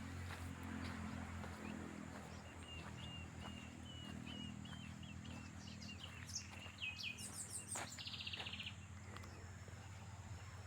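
Songbirds calling: a run of short high chirps through the middle, then a quick rattling trill near the end, over a faint low steady hum.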